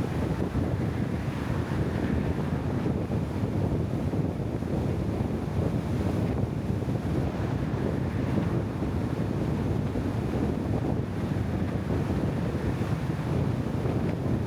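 Steady wind rumbling on the microphone: a dense, even noise, heaviest in the low end, with no distinct events.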